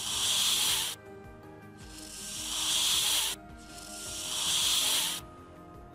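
A snake hissing three times, each hiss swelling over about a second and then cutting off sharply. Soft background music with held notes runs underneath.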